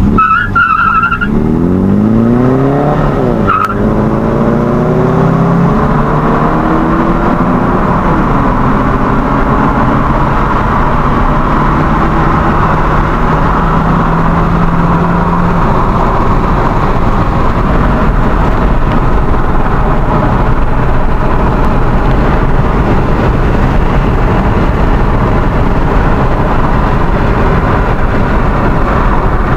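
Car engine revving hard under full-throttle acceleration, heard from inside the cabin. The pitch climbs, drops at a gear change about three and a half seconds in, and climbs again through the next gear. It then settles into a steady drone under loud road and wind noise at speed.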